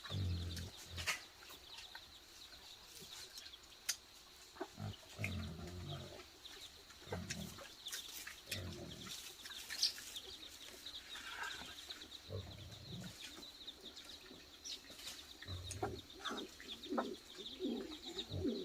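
Chickens clucking at irregular intervals, over a steady high chirring.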